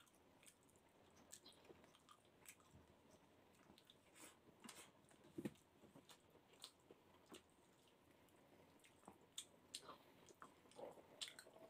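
Faint, scattered wet clicks and smacks of a person chewing and eating rice and fish with their fingers, the loudest about halfway through and a few more near the end.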